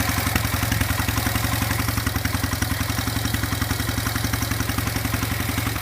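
Wisconsin AEH single-cylinder air-cooled engine of a 1947 Gibson Model D tractor running steadily at idle just after an electric start, with a fast, even exhaust beat and some clatter.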